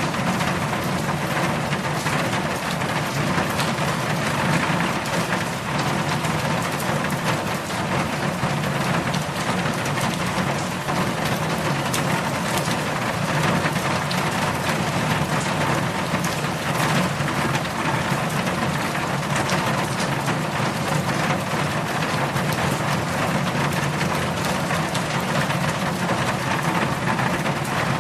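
Heavy rain falling steadily: a dense, even hiss with scattered drop spatters, over a steady low rumble.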